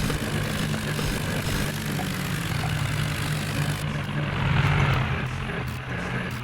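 Heavy diesel engine running steadily with a low, even hum, briefly louder about four and a half seconds in.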